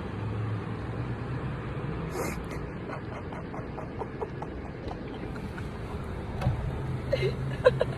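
A motor vehicle's engine running with a steady low hum, stronger at the start and again near the end.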